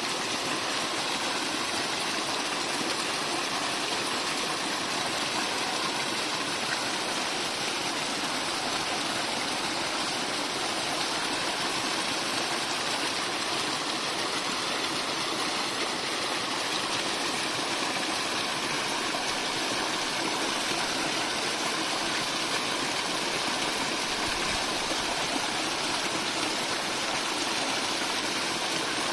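Mountain spring water flowing and splashing in a steady, unbroken rush.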